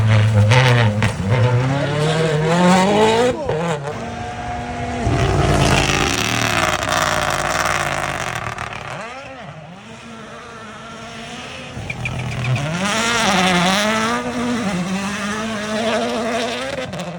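World Rally Championship rally cars at full power on a gravel stage, engine pitch rising and falling sharply through gear changes and lifts. A broad rushing noise comes about five to eight seconds in, and another stretch of engine running with rising and falling pitch follows from about twelve seconds.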